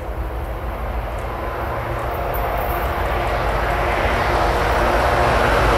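Diesel-electric freight locomotives approaching: a steady engine drone with the running noise of the train, growing steadily louder.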